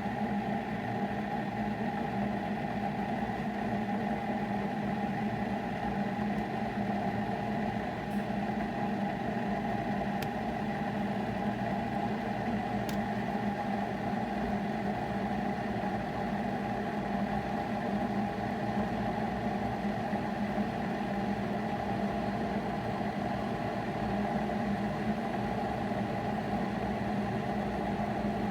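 Keurig K-Classic single-serve coffee maker running with a steady, unchanging hum, with a couple of faint ticks partway through.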